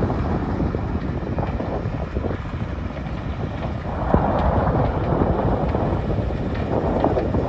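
British Rail Class 03 diesel shunter with its Gardner eight-cylinder engine running, mixed with heavy wind noise on the microphone. The sound gets louder about four seconds in.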